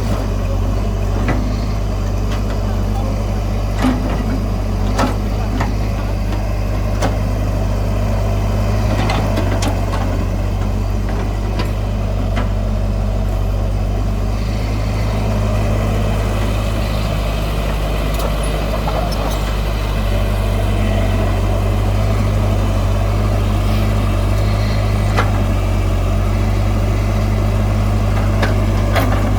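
Heavy diesel earthmoving machinery running steadily with a deep engine hum, with occasional short knocks.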